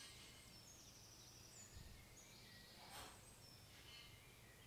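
Faint birdsong: thin high whistled notes, some held for about a second and some short glides, over a quiet steady low hum.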